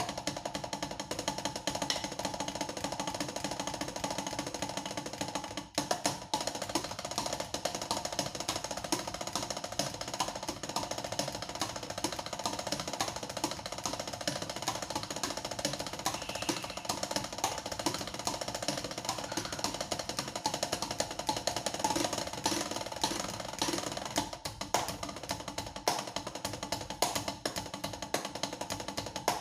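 Drumsticks playing rapid, even strokes on a drum, a dense unbroken run of hits with a brief break about six seconds in.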